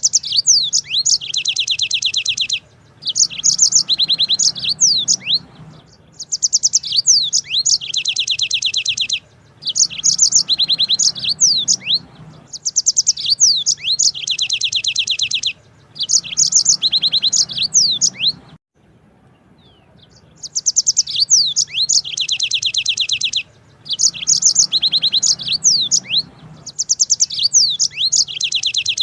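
Yellow-fronted canary (Mozambique canary) singing: bouts of a few seconds each of fast, high trills mixed with quick sweeping notes, repeating with short pauses between them.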